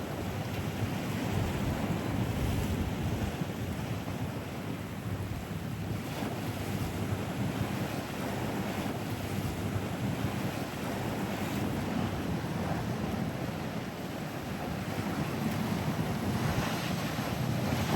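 Wind rumbling on the microphone over the rush and wash of waves, unsteady and gusty throughout.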